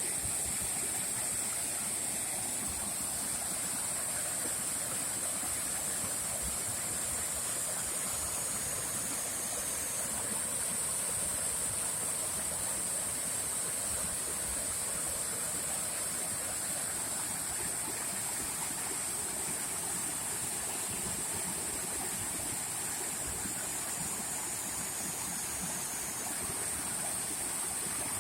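Waterfall: a steady, unbroken rush of water falling and splashing.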